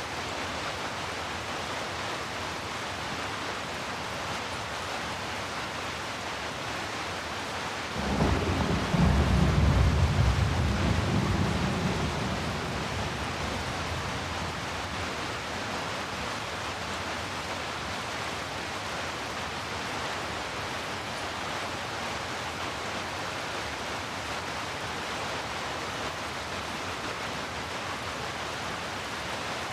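Steady rain falling, with a roll of thunder about eight seconds in: a sudden deep rumble, loudest for a few seconds, that dies away over the next few.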